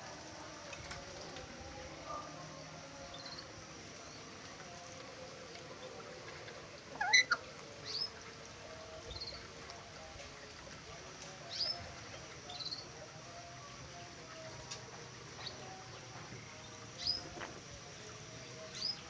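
Birds calling: short high chirps every second or two, with a louder call that sweeps up in pitch about seven seconds in.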